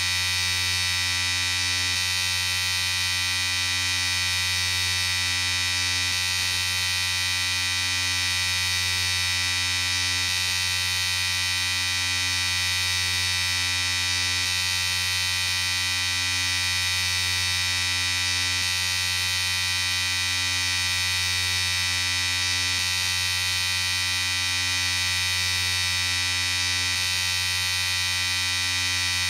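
Electric shaver running steadily: a constant buzzing hum with no change in speed or load.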